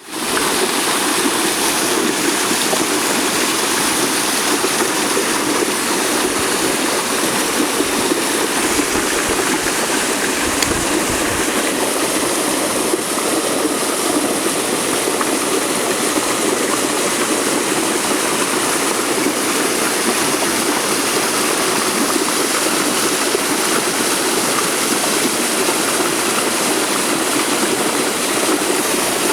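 Steady rush of flowing stream water. A brief low rumble comes about ten seconds in.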